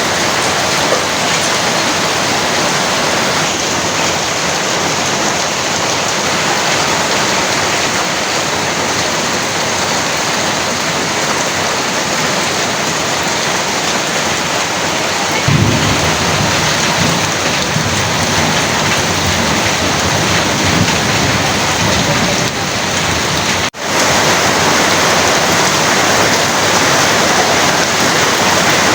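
Heavy rain pouring steadily as a dense hiss. About halfway through, a low rumble of thunder starts sharply and rolls on for several seconds. The sound cuts out for an instant about two-thirds of the way through.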